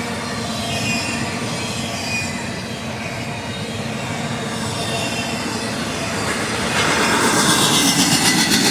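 Freight train cars rolling past on the rails, wheels rumbling with a faint squeal. It gets louder about seven seconds in, with rapid clicking of wheels over the rail.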